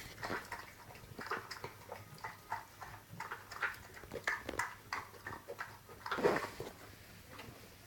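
A dog's mouth noises after drinking milk: a run of short wet smacks and licks, then one louder, longer burp about six seconds in.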